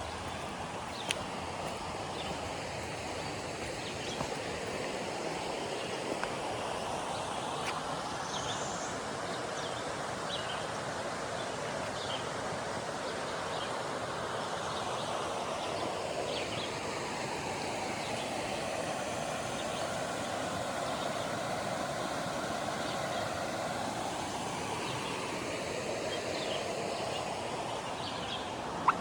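River water rushing steadily, a continuous even noise whose tone slowly shifts, with a few short high clicks and a brief rising chirp over it.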